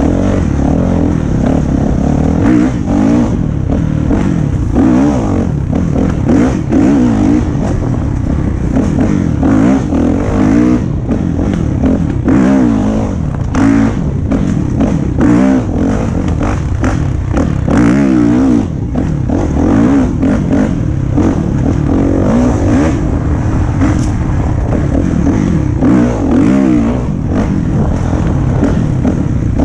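Dirt bike engine running hard, revving up and down continuously as it is ridden along a trail, with knocks and rattles throughout.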